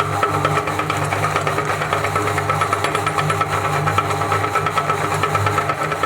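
Electric meat grinder running steadily, its motor humming with a fast, even rattle as it grinds cake.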